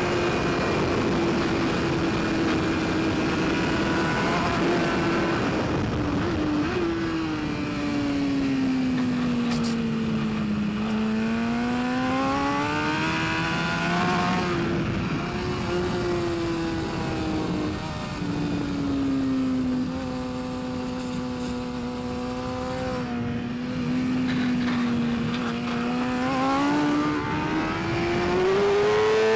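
Superbike engine at racing revs. Its pitch sinks slowly and climbs back a few seconds later, sinks again and holds low for several seconds, then rises steeply near the end.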